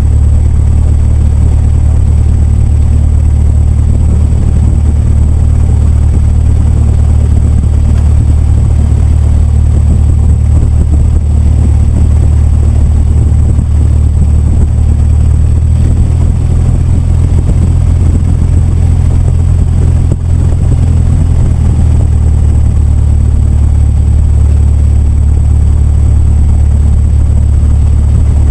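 Cessna 172's piston engine and propeller droning steadily, heard from inside the cabin, with a slight change in engine note about sixteen seconds in.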